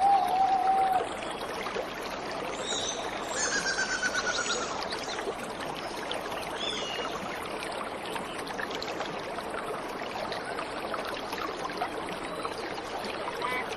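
Steady rush of a waterfall, with birds calling over it: a short whistle near the start, a run of fast trills a few seconds in, and another brief call soon after.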